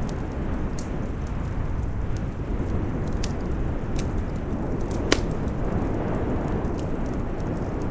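Wood fire crackling with scattered sharp pops, one louder pop about five seconds in, over a steady low rumble of storm wind.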